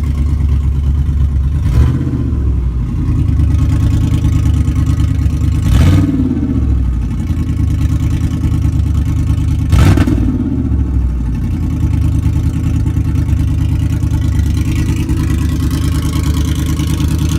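LS-swapped 5.3-litre LM7 V8 in a 1978 Chevy Caprice idling, with three quick throttle blips about four seconds apart, each revving up briefly and falling back to idle.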